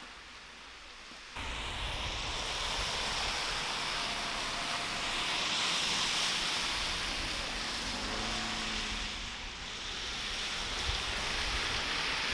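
Street traffic after heavy snow: a steady hiss of tyres on the road that cuts in suddenly just over a second in and swells as a vehicle passes about halfway through.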